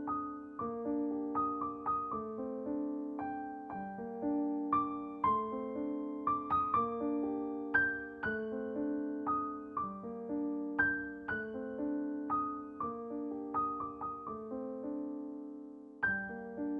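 Background music: a gentle piano melody of struck notes that ring and fade, played at an unhurried pace.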